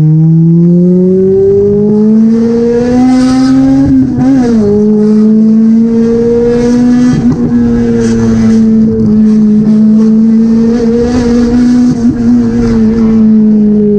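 Toyota 2ZZ-GE four-cylinder engine in a Corolla pulling under acceleration: the revs climb steadily for about four seconds, dip sharply and recover, then hold nearly steady.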